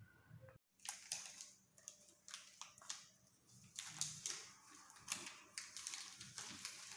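Faint, irregular light clicking and tapping, several clicks a second, like small objects being handled or keys being struck. A moment of dead silence comes just under a second in.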